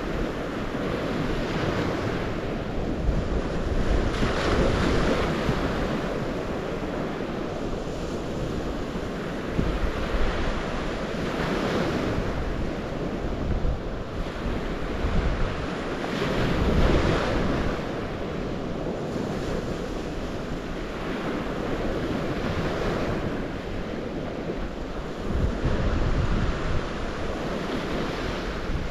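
Waves washing onto the shore of the St. Lawrence, swelling and ebbing every few seconds, with gusty wind rumbling on the microphone.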